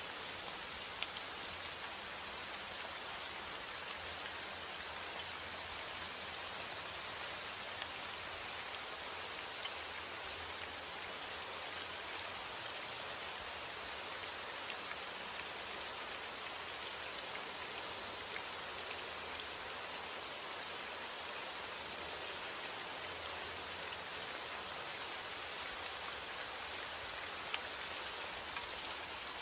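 Steady rain falling, an even dense hiss with scattered ticks of single drops.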